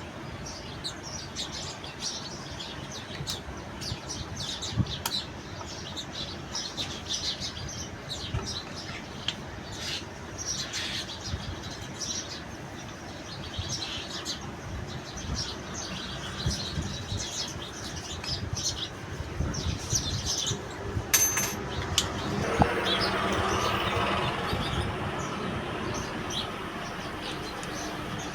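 Small birds chirping over and over, with scattered light clicks of handling. About two-thirds of the way through there is a sharp click, followed by a few seconds of louder rustling.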